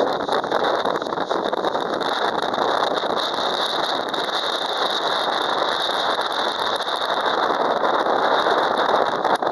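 Steady, loud rush of typhoon wind and rain, with dense crackle throughout.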